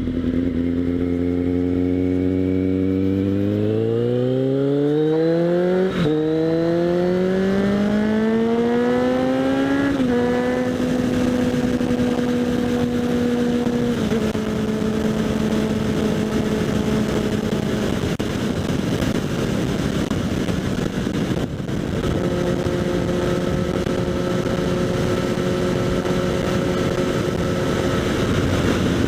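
Kawasaki Z800's inline-four engine through a LeoVince SBK aftermarket exhaust, heard from a helmet-mounted microphone: the revs climb twice, with upshifts about six and ten seconds in, then the bike cruises at steady revs. Wind noise rises over the engine about two thirds of the way through.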